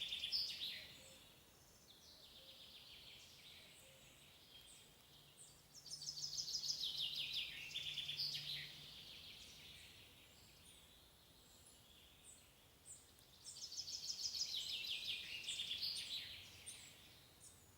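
A songbird singing outdoors: three phrases of rapid notes that fall in pitch, one at the start, one about six seconds in and one near the end, over faint background noise.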